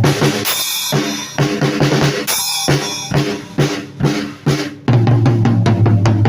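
Drum kit being played freely, with bass drum and snare hits. The playing thins out to sparser strikes for most of the middle, then comes back dense and full about five seconds in.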